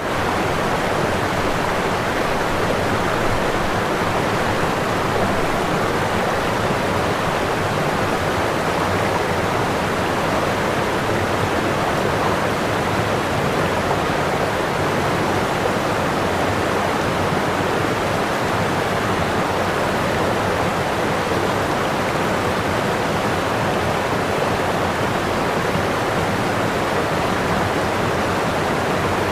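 Waterfall: whitewater pouring over the falls in a steady, even rush of water.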